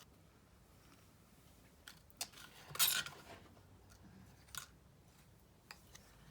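Scissors cutting paper: a couple of sharp snips about two seconds in, a louder, longer cut about three seconds in, and one more snip a little later.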